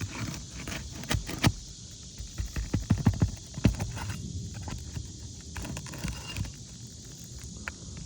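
A roofer's snake tool (shingle nail remover) scraping and knocking under brittle old asphalt shingles as it pops roofing nails loose, in a series of sharp clicks and knocks that come thickest just past the middle.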